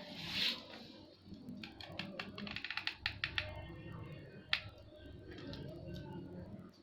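Hands handling craft materials: a brief rustle at the start, then a quick run of small clicks and taps about two to three and a half seconds in, and one sharp click about four and a half seconds in.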